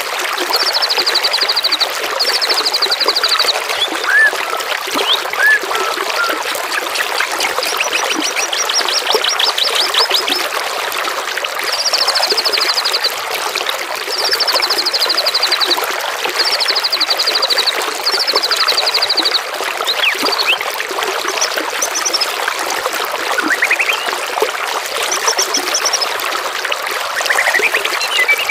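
Water trickling and running steadily, with a small songbird repeating a short, high buzzing trill about every two seconds, plus a few brief chirps.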